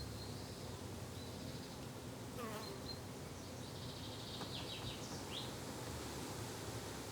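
Garden ambience of insects buzzing steadily, like bees and flies, with a few high bird chirps. About two and a half seconds in comes a call that falls steeply in pitch.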